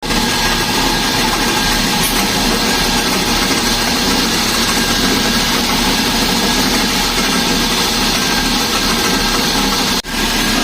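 Mercedes-Benz S300 engine idling with a loud, steady noise from the front of the engine, a sign that something there is broken. The mechanic puts it down to the alternator grinding with a failed inner bearing, along with the idler pulleys.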